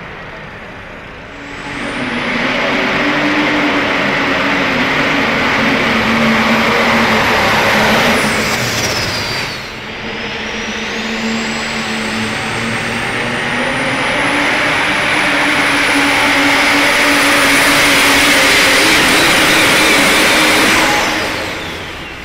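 Pulling vehicle's engine running loud at full power down the pull track, with a high whine that climbs and holds. About eight seconds in the whine drops away and the engine eases off briefly, then it builds again to full power before fading near the end.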